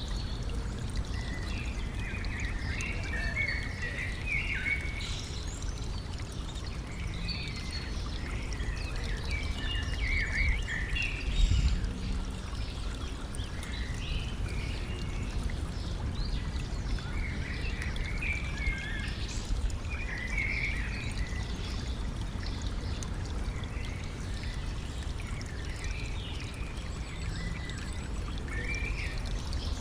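Stream water running and trickling steadily, with a low rumble, while birds sing in short chirping phrases throughout. A brief louder low bump about eleven seconds in.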